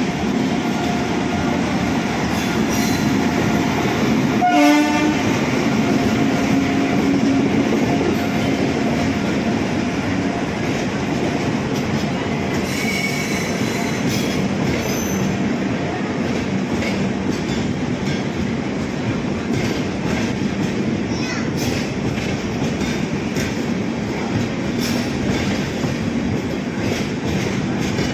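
Rajdhani Express passing alongside the platform: a steady rush of wheels on rail with clickety-clack from the coaches. A short blast of the electric locomotive's horn sounds about five seconds in.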